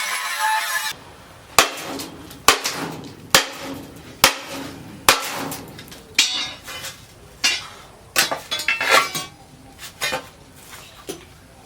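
Hammer blows on steel, each with a brief metallic ring: five evenly spaced strikes under a second apart, then a quicker, irregular run of lighter strikes. A steady noise cuts off about a second in.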